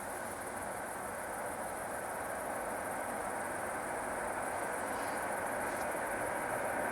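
Insects trilling steadily and high-pitched, over a rushing background noise that slowly grows louder.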